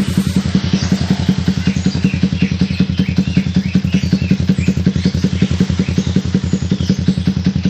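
Yamaha MX King 150's single-cylinder four-stroke engine idling through an aftermarket exhaust: a steady, even putter of rapid exhaust pulses.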